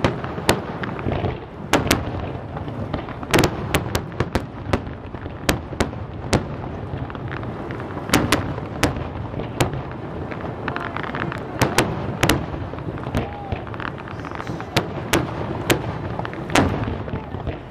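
Fireworks display: aerial shells bursting in a rapid, irregular barrage of sharp bangs, several a second at times, over a steady background noise.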